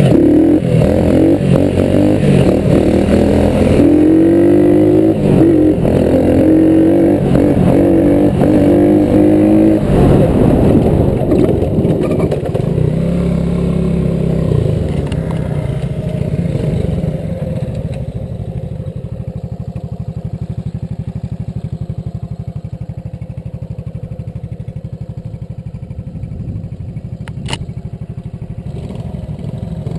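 Small single-cylinder four-stroke engine of a three-wheeler or dirt bike revving up and down for about ten seconds, then dropping to a fainter, steadier run.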